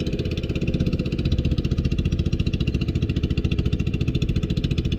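Fishing boat's engine running steadily with an even, rapid pulsing beat.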